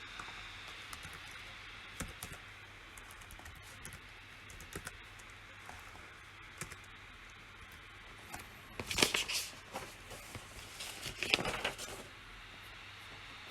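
Computer keyboard being typed on: scattered single keystrokes, then two quick flurries of typing about nine and eleven seconds in, over a steady background hiss.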